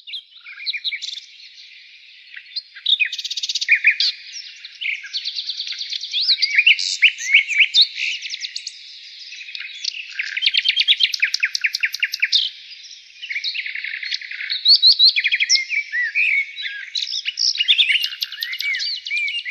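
Nightingale singing: phrase after phrase of rapid repeated clicking notes and trills mixed with clear gliding whistles, separated by short pauses.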